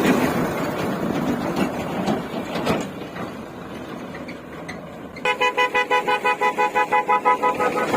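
An engine runs, then fades after about three seconds. A little over five seconds in, a vehicle horn starts sounding in rapid pulses, about five a second, and carries on to the end.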